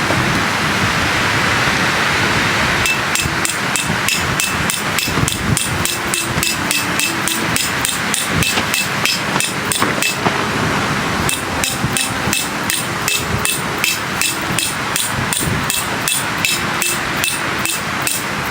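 Rapid hammer blows with a light metallic ring, about three to four a second, typical of a peg hammer driving metal tent pegs, with a short break partway through. A steady rush of strong wind comes before the blows begin, about three seconds in.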